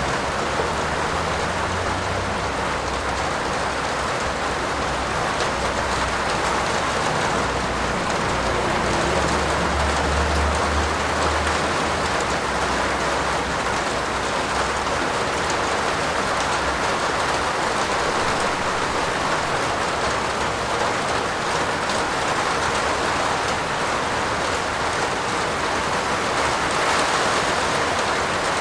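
Steady, heavy rain falling on a roof, an even unbroken hiss with a faint low rumble underneath about ten seconds in.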